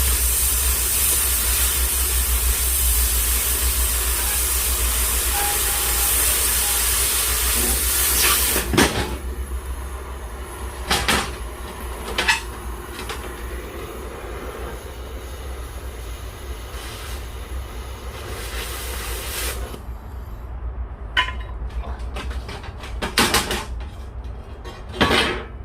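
Steady loud hiss of electric arc welding on steel plate, stopping about 9 s in, followed by a few sharp metal knocks as the work is handled.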